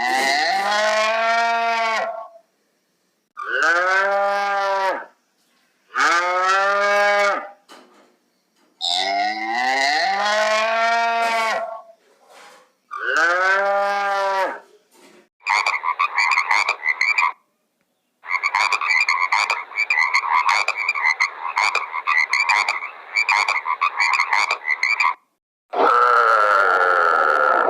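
Animal calls: five long, drawn-out calls of about two seconds each, arching in pitch. They are followed by a long stretch of rapid pulsing, croak-like calling and one more long call near the end.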